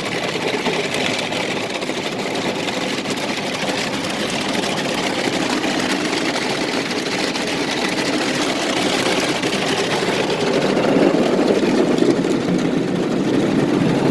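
Automatic car wash working over the car, heard from inside the cabin: a steady wash of water spray and brush machinery that grows louder in the second half.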